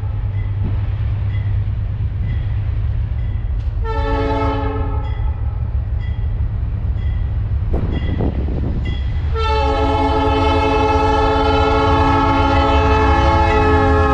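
Multi-chime air horn of a GE B40-8W diesel locomotive sounding a short blast about four seconds in and a long blast starting about nine seconds in, over the steady rumble of the passing diesel locomotives. A bell dings at a steady pace between the two blasts.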